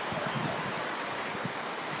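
Steady rushing noise of Tropical Storm Pabuk's wind and rain, with a few low buffets in the first half second.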